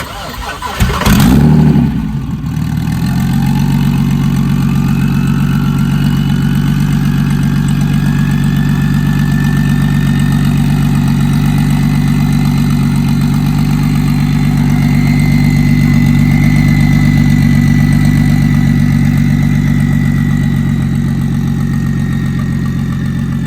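A car engine catches with a loud burst about a second in, then settles into a loud, steady idle. A thin whine above it climbs slowly in pitch over the next several seconds.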